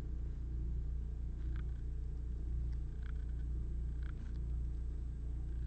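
Steady low hum of room or equipment noise, with a few faint soft clicks and rustles of trading cards being handled about one and a half, three and four seconds in.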